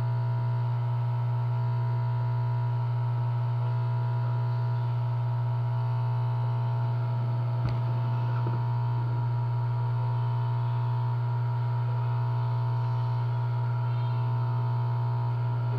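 Steady low electrical hum with a fainter constant whine above it, and a single small click about eight seconds in.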